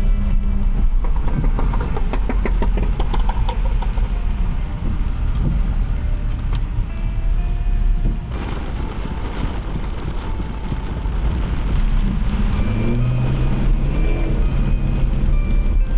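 Car driving in city traffic on wet roads: a steady low rumble of engine and tyre noise, with short tones from the street coming and going.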